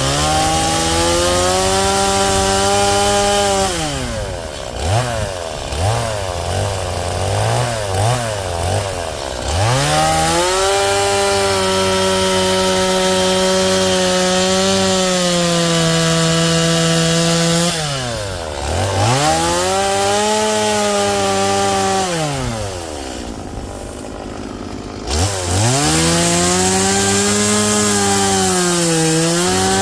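Angle grinder fitted with a Kutzall shaping disc grinding wet western red cedar. The motor's whine drops and wavers as the disc is pressed into the wood. Twice the tool winds down and then spins back up to speed.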